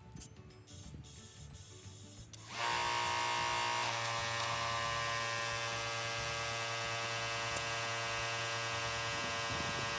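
A motor-driven machine starts suddenly about two and a half seconds in and runs steadily with an even buzz.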